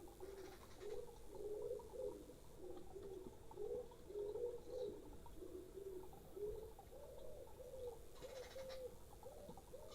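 Pigeons cooing: a continuous run of short, low coos, with two brief rustling noises, one about half a second in and one near the end.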